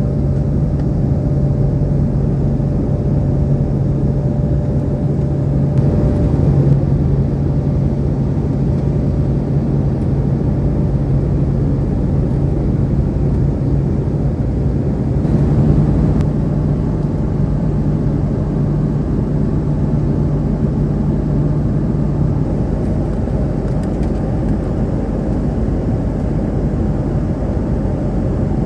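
Steady low drone of a moving vehicle heard from inside, with an even low hum under it.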